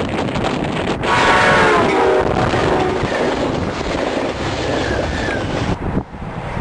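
A passenger train's horn sounds as the train passes close by, its chord starting suddenly about a second in and dropping in pitch over about two seconds. It is followed by the steady rumble and rush of the bilevel coaches rolling past, which cuts off abruptly near the end.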